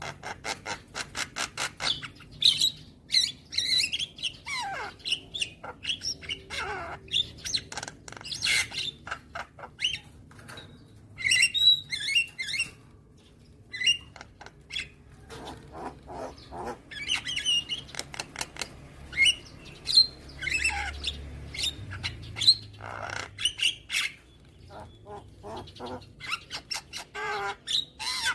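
Javan myna (jalak kebo) singing: rapid runs of clicking chatter mixed with harsh squawks and short whistled notes, some sliding downward, broken by brief pauses.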